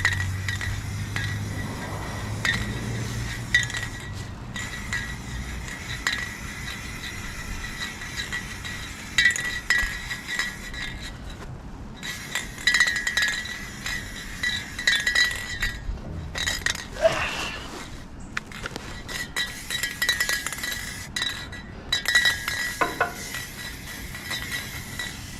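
Aerosol spray paint can spraying in bursts, the hiss stopping briefly several times, with the can's mixing ball clinking inside as it is shaken.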